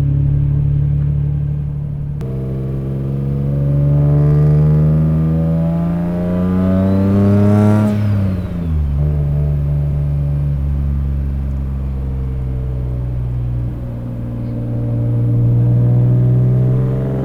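Single-turbo 2003 Nissan 350Z's 3.5-litre V6 under way: the revs climb steadily for several seconds, then fall away sharply. The engine then runs at a steady lower speed before rising gently again near the end.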